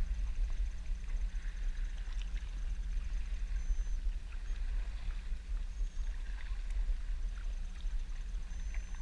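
Water lapping and dripping, with faint small splashes from paddling, over a low steady rumble.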